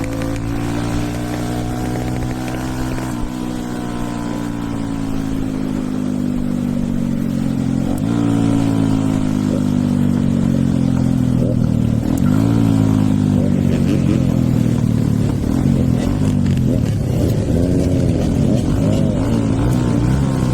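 Hero Eco 150 motorcycle engine with a stage 2 tune running under way. Its revs fall slowly over the first several seconds and shift a couple of times in the middle, then rise and fall unevenly with the throttle near the end.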